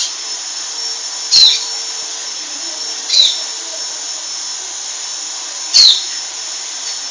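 A dog giving three short, high-pitched yelps that drop in pitch, about a second and a half to two and a half seconds apart, over a steady hiss.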